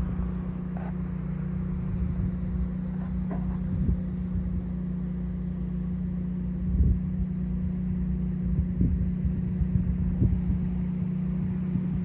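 An engine running steadily, making a constant low drone, with irregular low thumps over it.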